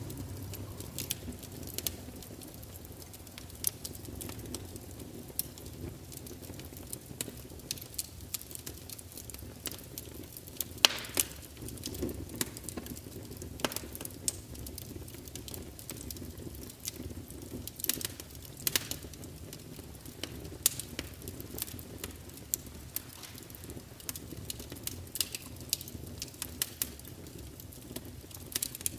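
Wood fire crackling, with irregular sharp pops and snaps over a steady low rumble of burning. One pop about eleven seconds in is the loudest.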